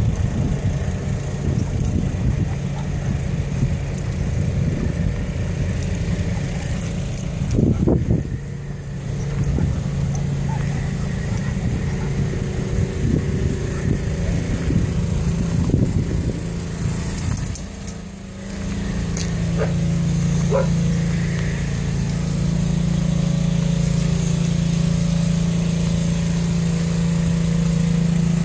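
A train of freight cars and a small steam locomotive rolling past, wheels rumbling and clattering on the rails, with a loud knock about eight seconds in. Later the rolling noise gives way to a steady low hum.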